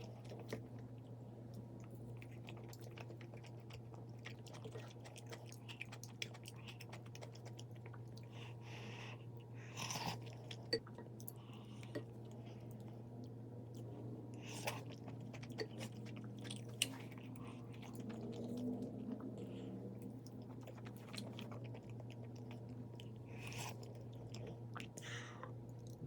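A person chewing and crunching food in close-up, with a few sharp clicks, over a steady low hum.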